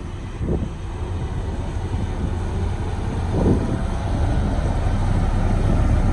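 Heavy diesel construction machinery running with a steady low rumble, with a short burst of noise about three and a half seconds in.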